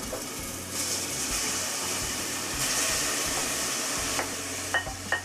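Pre-cooked chicken and vegetables going into a pan of hot flour-and-oil roux, sizzling with a steady hiss that swells about a second in and again around three seconds. Two sharp clinks near the end.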